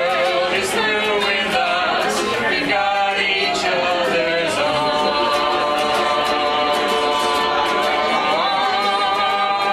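Voices singing a love-song medley in harmony, with long held notes through the second half.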